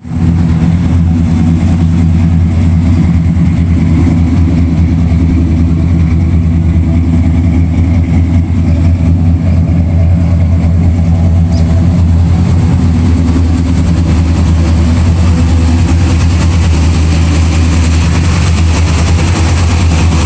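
383 stroker small-block Chevrolet V8 in a 1966 SS idling steadily, loud and even throughout with no revs.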